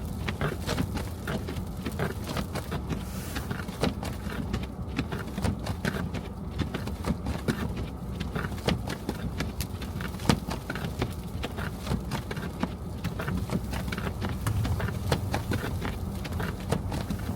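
Car driving through snow and slush: a steady low road-and-engine rumble with frequent irregular clicks and taps.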